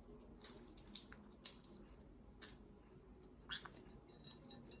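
Green-cheeked conure nibbling walnut pieces with its beak: small, irregular crunches and clicks, the loudest about a second and a half in.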